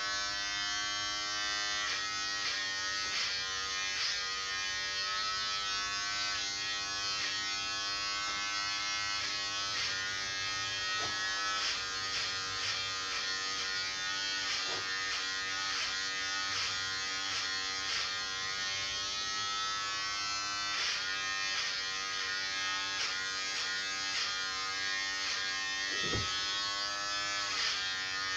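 Electric hair clippers running steadily with a motor buzz, the pitch dipping briefly now and then as they bite into hair.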